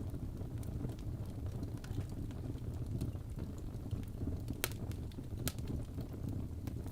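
Wood fire in a fireplace crackling over a steady low rumble, with frequent small ticks and two sharper pops a little over halfway through.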